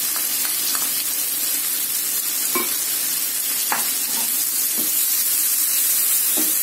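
Onion-tomato masala with freshly added ground spices sizzling in hot oil in a pan, while a spatula stirs it, with a few short scrapes against the pan.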